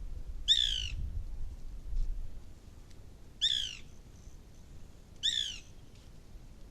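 A bird giving a short, clear call three times, each about a third of a second long and two to three seconds apart.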